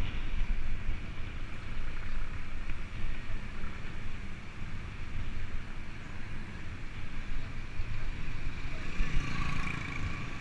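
Wind buffeting the microphone of a moving bicycle, a steady low rumble with hiss, slightly brighter near the end.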